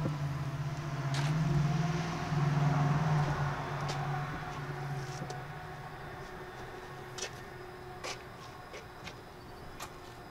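A car's engine hum swells over the first few seconds and then fades away. A few light clicks follow in the second half.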